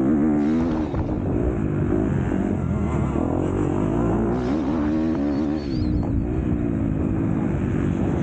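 Motocross bike engine under race throttle, its pitch rising and falling over and over as the throttle is opened and closed.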